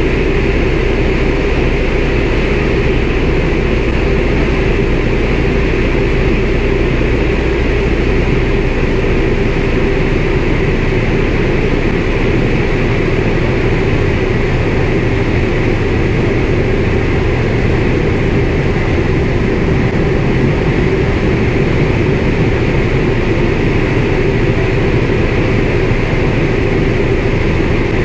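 CAC Winjeel's Pratt & Whitney R-985 radial engine running steadily, heard from inside the cockpit. The deep part of its note changes about a third of the way in, as with a power change.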